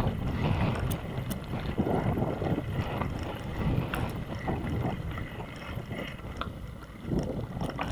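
Strong wind rumbling and buffeting on the microphone of a moving bicycle rider, rising and falling in gusts, with a few light clicks.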